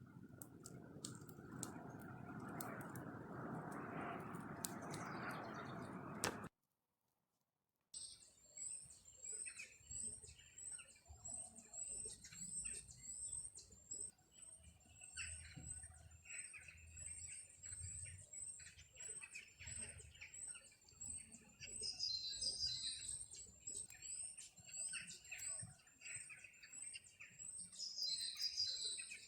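Forest birds calling, one with a high chirp repeating about twice a second and others joining in with louder calls late on. It is preceded by a few seconds of steady noisy rushing with scattered clicks that cuts off abruptly.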